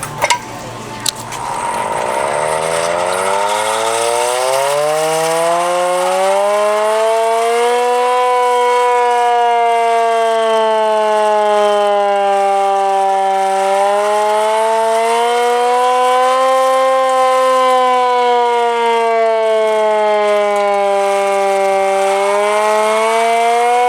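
Air-raid siren winding up from a low pitch over about six seconds, then wailing slowly up and down in pitch: the rising-and-falling air-raid warning. Two sharp knocks come in the first second.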